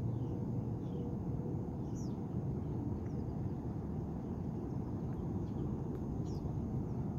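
Steady low outdoor rumble with a few short, high bird chirps that fall in pitch; the clearest come about two seconds in and again past six seconds.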